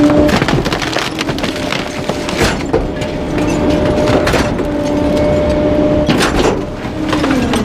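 Garbage truck engine held at raised revs to drive the packer hydraulics, with repeated cracks and knocks of bulky items being crushed in the hopper. The engine speeds up just before and drops back just after, as the packer cycle runs.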